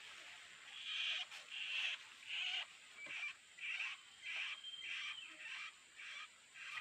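Tropical forest wildlife: a regular series of short, rasping calls, about one and a half a second, with a thin steady high whine underneath.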